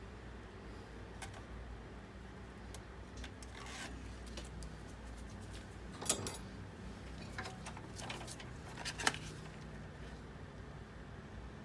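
Small hard parts being handled during a desktop PC teardown: scattered light clicks and rattles, with a sharper clatter about six seconds in and another about nine seconds in, over a low steady hum.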